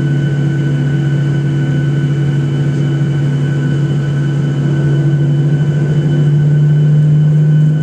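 Boeing 737-800's CFM56 jet engines running during taxi, heard from inside the cabin as a steady low drone with a few high whining tones, growing slightly louder about six seconds in.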